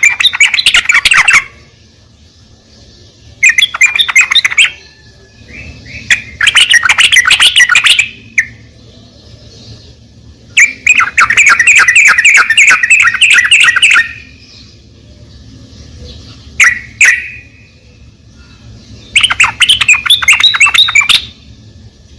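Yellow-vented bulbul (trucuk) song: loud bouts of rapid, bubbly chattering notes, five bouts separated by pauses of a few seconds, with a couple of short single calls in the longer gap near two-thirds of the way through.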